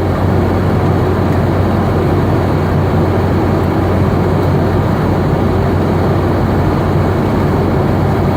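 Steady cabin drone inside a Boeing 717: its rear-mounted Rolls-Royce BR715 jet engines and rushing air, with a constant low hum under an even roar.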